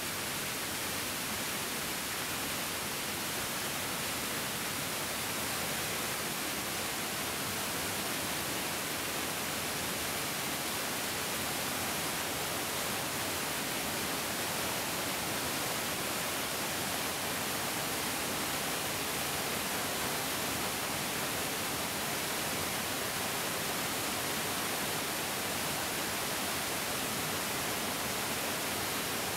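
Mountain stream rushing over rocks: a steady, even hiss of flowing water, without breaks or changes.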